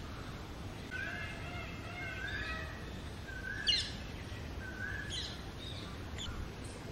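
Background birds calling: a scatter of short, arched whistled notes, with a sharp rising chirp about three and a half seconds in.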